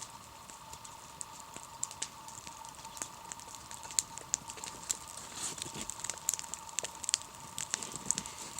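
Wood fire crackling, with irregular sharp snaps that grow denser after about five seconds, over a faint steady tone.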